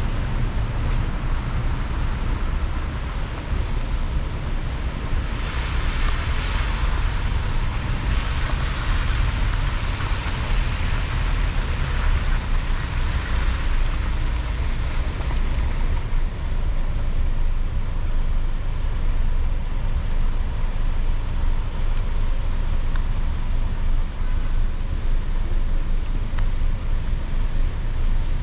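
Car driving on a rain-wet city street: a steady low road and engine rumble, with a louder hiss that rises about five seconds in and fades by about fourteen seconds in.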